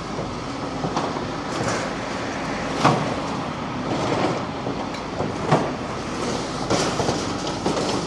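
Demolition excavator breaking up a concrete building: a steady machine rumble with irregular sharp cracks and knocks as concrete is crunched off and falls.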